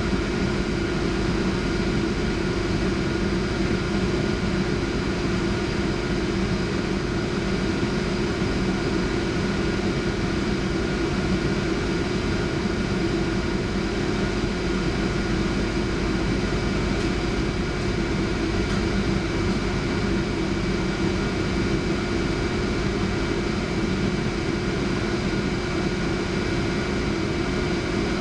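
Cabin noise inside a Centram low-floor electric tram: a steady rumble with a constant electrical hum of several even tones.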